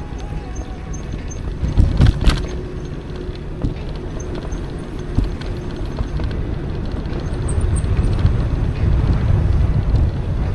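Low, steady wind-and-road rumble from an electric mountain bike being ridden, with a brief cluster of knocks and jolts about two seconds in.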